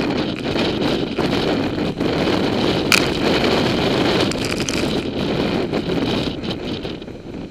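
Hurricane Igor's strong gusting wind buffeting the microphone as a loud, rumbling rush that swells and eases, with a brief sharp click about three seconds in.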